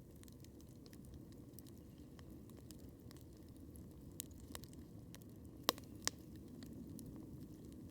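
Wood campfire crackling: a scattered run of small ticks and pops, with two louder snaps close together about six seconds in, over a low steady background noise.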